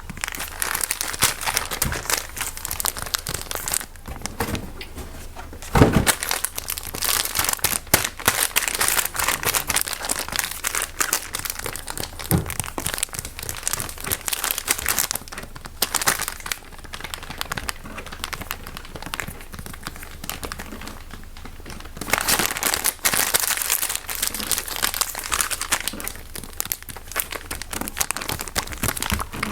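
Fast, irregular crinkling and crumpling of something crinkly handled right at the microphone as an ASMR trigger, with a couple of low thumps about six and twelve seconds in.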